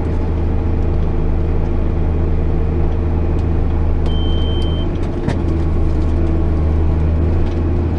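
JCB Fastrac 8250 tractor's diesel engine running steadily with a low drone. A short high beep sounds about four seconds in, and a single knock about a second later.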